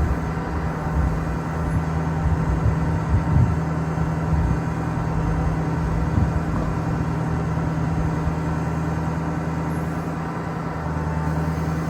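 A 2008 Ford F550's Power Stroke turbo diesel running steadily with the PTO engaged, driving the boom's hydraulic pump, with a steady hum over a low rumble. The sound dips briefly and shifts a little near the end.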